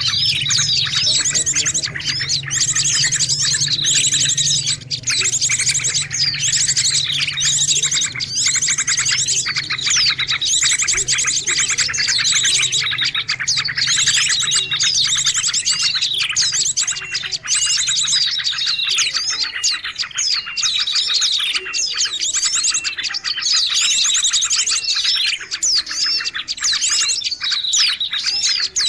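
Songbird chirping and trilling without pause in fast repeated phrases with falling sweeps, a bird-lure call track. A low hum sits under the first half.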